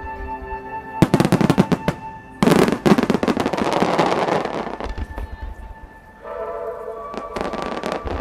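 Starmine fireworks bursting in rapid volleys with sharp cracks, then a long loud crackling spread about halfway through, over music that plays with the show.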